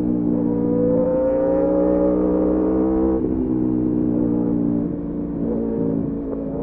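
Aprilia Tuono V4 motorcycle's 65-degree V4 engine running under way at a steady pitch, with a brief break in the note about three seconds in and a slight drop in level near five seconds.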